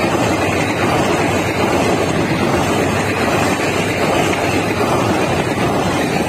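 Express train's passenger coaches rushing past at speed close by: a loud, steady rumble and rush of wheels on rail, with wind buffeting the microphone.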